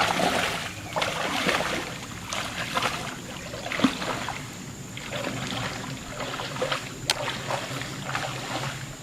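Water splashing and sloshing in irregular surges, with a few short sharper splashes.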